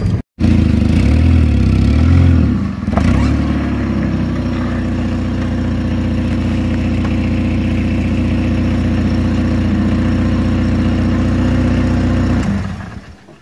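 Car engine running close by. It is revved up and down a couple of times in the first few seconds, then idles steadily and is switched off, dying away near the end.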